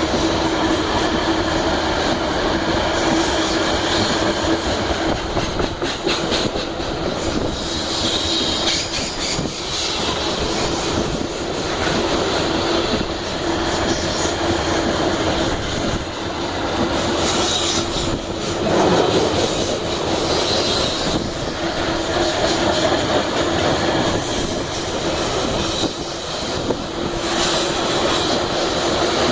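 Iron ore freight train wagons rolling past, steel wheels on the rails making a steady rumble and clatter, with a high wheel squeal coming and going several times.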